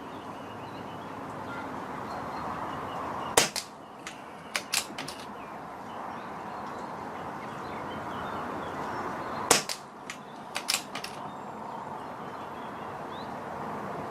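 Pre-charged pneumatic air rifle firing .177 pellets: two sharp shots about six seconds apart, each followed by several lighter clicks, over a steady hiss.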